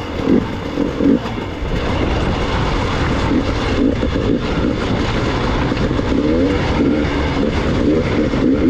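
Gas Gas EX 300 two-stroke enduro motorcycle engine running on a rocky descent, its revs wavering up and down, with scattered knocks and rattles.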